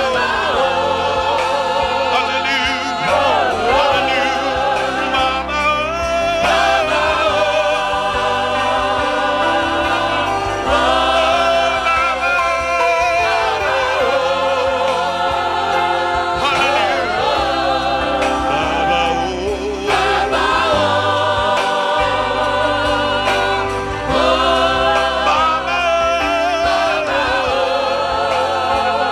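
Gospel worship music: a choir singing held, wavering notes over a steady low accompaniment.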